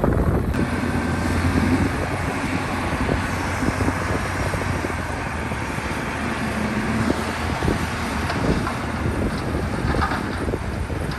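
Heavy diesel engine of a bulldozer running steadily, with a few short knocks near the end.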